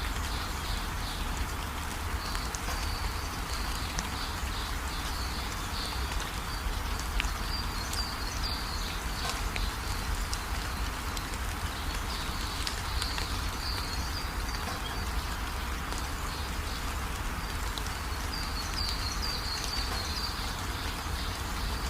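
Steady rainfall with a constant hiss and small drop ticks. Clusters of high animal chirps come and go over it.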